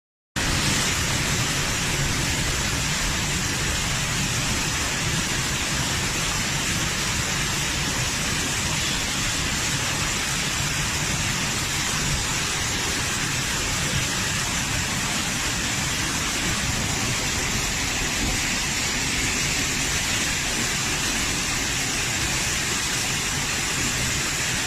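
Heavy rain pouring steadily, a dense even hiss with no separate drops or strikes standing out. It starts suddenly just after the beginning and cuts off suddenly at the end.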